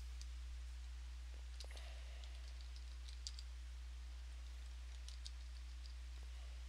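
Faint scattered light clicks in a few short clusters, over a steady low electrical hum.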